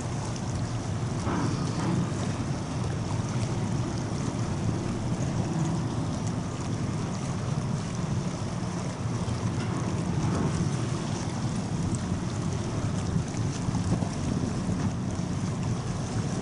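Steady low rumble of the RORO cargo ship Kariyushi with rushing water, and wind buffeting the microphone.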